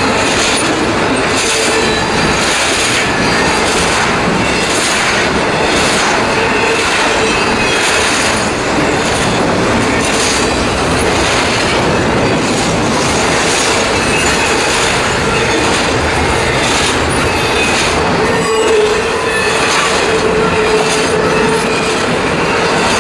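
Intermodal freight train's trailer-carrying flatcars rolling steadily past, a continuous rumble of steel wheels on rail with regular clacks over the rail joints. A thin wheel squeal runs through it and grows louder near the end.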